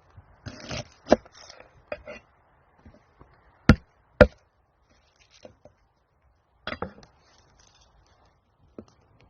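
Sharp chopping knocks, several in all, the two loudest about half a second apart near the middle, with scraping and rustling between them.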